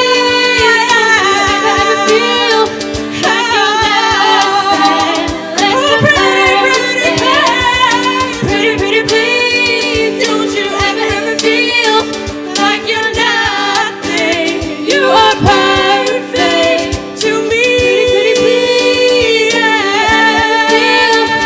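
Show choir performing live: a group of voices singing over instrumental backing, with held low notes under the melody and frequent short percussive hits.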